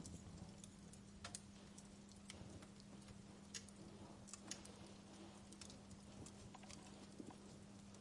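Wood fire crackling: faint, irregular pops and snaps of burning wood, with a steady low hum underneath.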